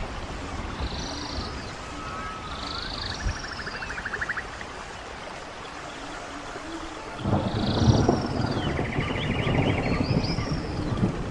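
Wild birds singing, repeated short calls and rattling trills, over running stream water. About seven seconds in, a louder low rushing sound comes in sharply and carries on.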